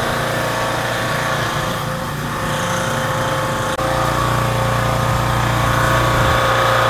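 Pressure washer running steadily during a wash-down, with a brief click and drop about four seconds in, after which its low hum is louder.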